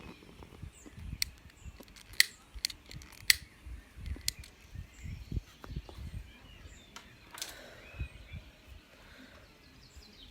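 Scattered sharp clicks and soft low thuds at an uneven pace, with a brief rustle about seven seconds in and faint bird chirps.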